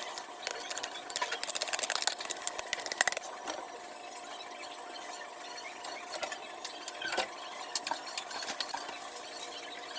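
Kitchen clatter. A quick run of light clicks and scrapes lasts about three seconds, then scattered single clicks follow over a faint steady hum.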